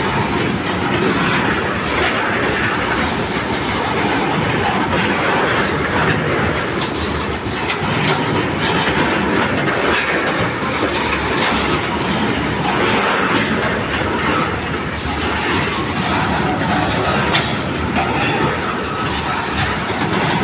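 Loaded coal hopper wagons rolling past close by: a steady loud rumble of steel wheels on rails, with the rhythmic clickety-clack of wheels crossing rail joints.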